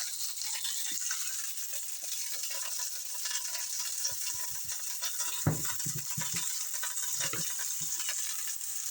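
Chicken and onion sizzling steadily in a cast iron skillet, with a cluster of knocks about halfway through and a few more a second later.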